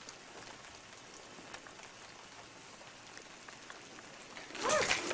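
Steady rain falling, with scattered drips. A short voice-like sound with a bending pitch comes near the end.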